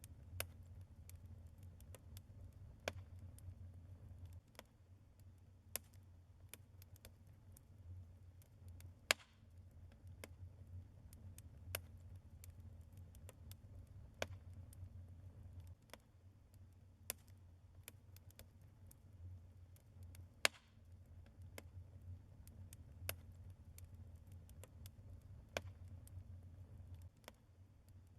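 Logs burning in a fireplace, crackling faintly with irregular sharp pops and snaps over a low steady rumble. A couple of the pops are much louder than the rest.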